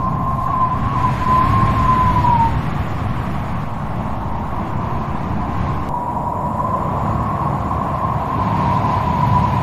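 Strong wind blowing with a low rushing rumble and a wavering high whistle or howl. The whistle dies away about two and a half seconds in and comes back around six seconds in.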